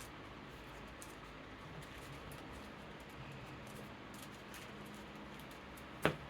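Card sleeving: soft rustles and light ticks of cards and plastic sleeves being handled, over the steady hiss of an electric fan, with one sharp click near the end.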